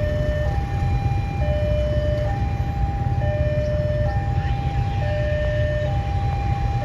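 Railway level-crossing warning alarm sounding, two tones alternating, each held just under a second, over a steady low rumble.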